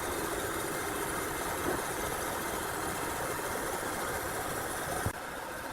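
Machinery running steadily, an even mechanical noise with a short sharp click about five seconds in, after which it is slightly quieter.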